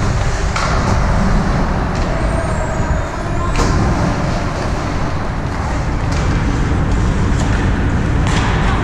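Ice hockey game noise heard in an arena: a steady low rumble and hiss of play, with a few sharp clacks of sticks or puck, three of them standing out.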